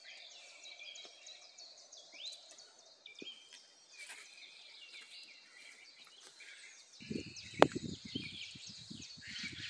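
Birds chirping and singing, many short high notes throughout. Near the end a low rumble comes in, with one sharp click that is the loudest sound.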